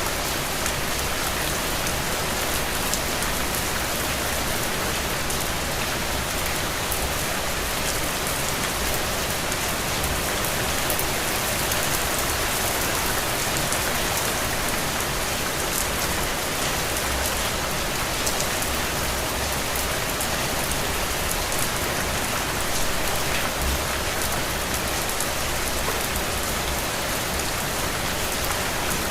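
Steady rain falling on surfaces, a dense, even hiss with many individual drops ticking through it.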